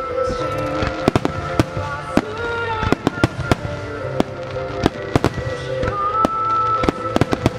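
Starmine fireworks barrage: many sharp shell bursts and reports in quick, irregular succession, several to a second at times. Music with long held notes plays underneath.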